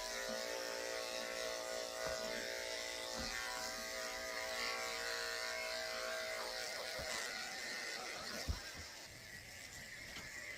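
Electric dog grooming clippers running with a steady buzz, cutting off about two-thirds of the way through; a single sharp click follows a couple of seconds later.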